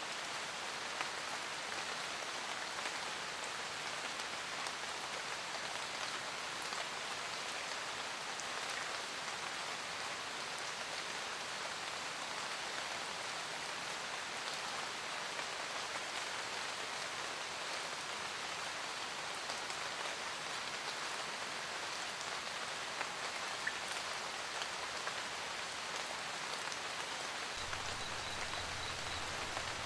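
Steady rain pattering, an even hiss of drops with no let-up. A low rumble joins near the end.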